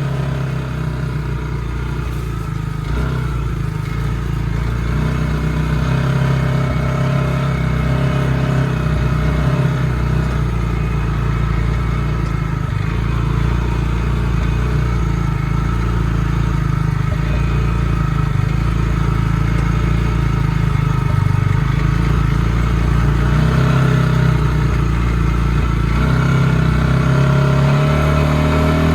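Bighorn Explorer UTV's 400cc engine running steadily while driving, loud, with the pitch climbing a little near the end.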